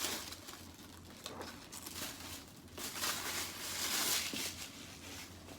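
Packaging crinkling as it is handled, in a short burst at the start and a louder stretch about three to four seconds in.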